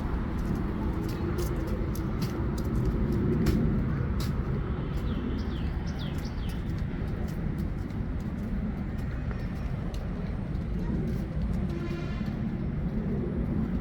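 Outdoor background noise: a steady low rumble with scattered sharp clicks, and a few short high chirps about five seconds in.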